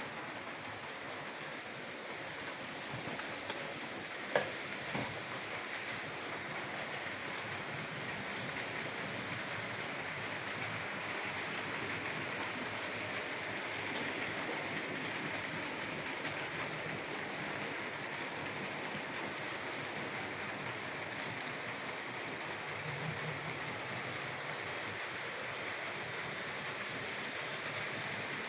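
H0 model trains running on a layout's track: a steady whirr of small motors and wheels rolling over rails. A few light clicks come about four to five seconds in and again about halfway through.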